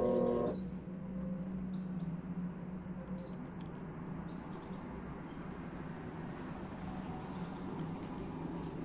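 Maytag washing machine in its automatic calibration cycle: a motor whine cuts off about half a second in, leaving a steady low hum with a few faint, short, high chirps.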